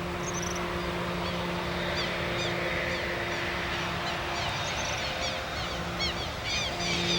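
Twin turboprops of a Raytheon C90A King Air droning in the distance as it approaches, a steady hum that grows a little louder near the end. Birds chirp over it throughout in many short, quick calls.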